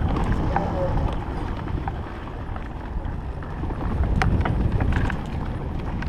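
Low rumble of an electric enduro bike ridden over a rough forest track, with wind on the microphone and scattered sharp rattles and knocks from the bike jolting over bumps, several of them about four seconds in.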